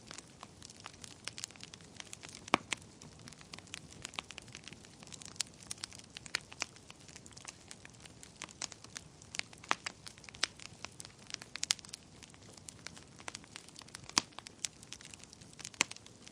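Wood fire crackling in a fireplace: irregular sharp pops and snaps, several a second, over a soft hiss of burning, with a few louder pops about two and a half seconds in and near fourteen seconds.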